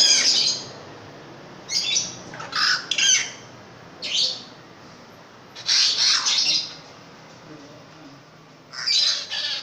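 Long-tailed shrike (pentet raja) giving loud, harsh, scratchy squawking calls, about six bursts with short pauses between them, some coming in quick pairs.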